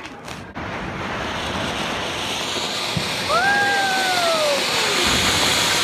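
Ground firework fountain hissing steadily as it sprays sparks. About three seconds in, a high tone slides downward for a second or two.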